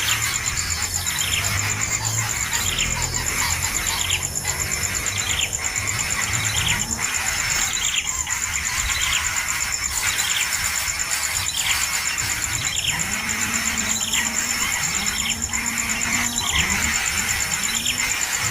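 A bird calling over and over, each call a short note sliding downward in pitch, about one every second or so, over a steady high-pitched insect drone.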